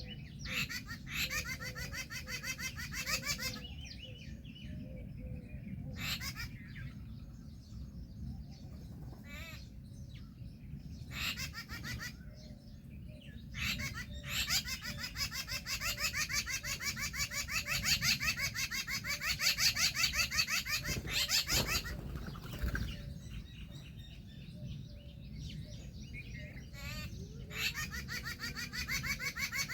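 Birds calling in bouts of rapid, chattering repeated notes, several bouts with short pauses between them, the longest running for about seven seconds.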